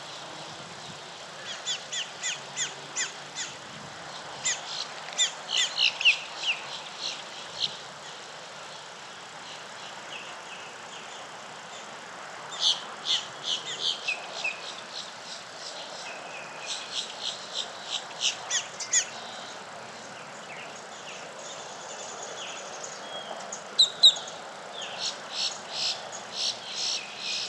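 Songbirds calling in repeated phrases of sharp, high chirps, a few notes a second, that come and go every several seconds over a steady faint background hiss.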